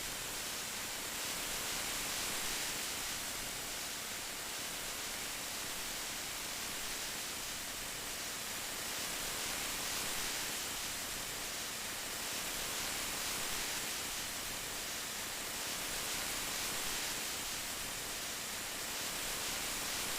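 Steady rain falling as an even hiss, swelling and easing gently every few seconds.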